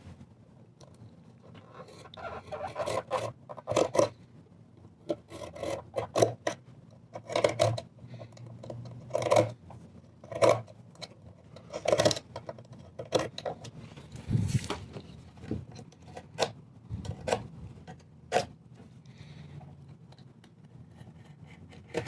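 A hand tool scraping and rubbing on wood in short, irregular strokes with brief pauses between them, as old glue and filler are cleaned out of a chair's cracks.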